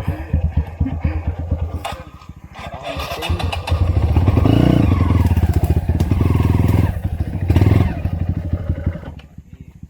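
Trail dirt bike engine running at low revs, then opened up from about three seconds in and held loud for several seconds, with a second burst of throttle near the end before it drops back.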